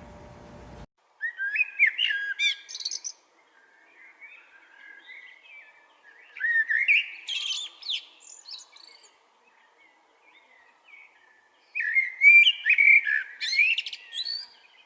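A songbird singing in three quick, warbling phrases a few seconds apart.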